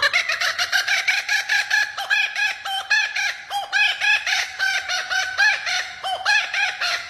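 A bird giving a rapid, unbroken run of short repeated calls, about three or four a second.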